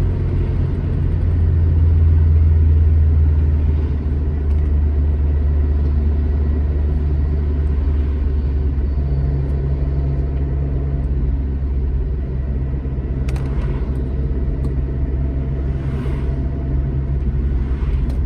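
Alfa Romeo GT Junior's twin-cam four-cylinder engine running while driving, a steady low rumble with road noise. It swells a second or two in, and the engine note shifts about halfway through. A couple of brief clicks come later.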